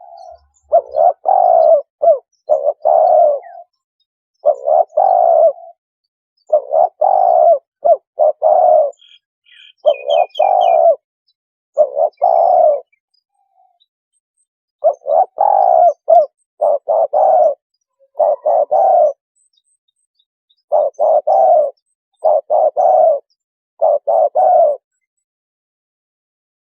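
Spotted dove cooing as a lure call: short phrases of two or three low coos, repeated after brief pauses. A small bird's quick high chirps cut in once, about ten seconds in.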